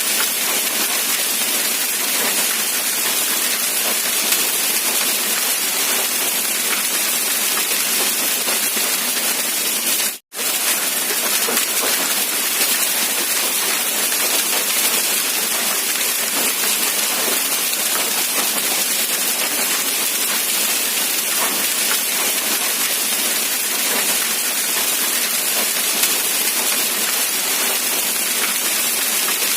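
Steady rain, an even dense hiss of falling drops. About ten seconds in it cuts out completely for a split second, then resumes unchanged.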